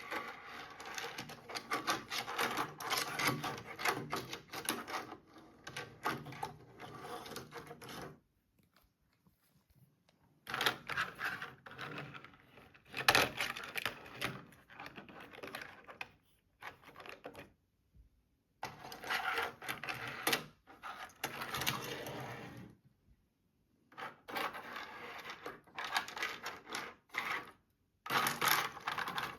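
Hot Wheels plastic playtrack pieces and toy cars being handled, a rapid clicking and clattering in bursts of several seconds with short pauses between.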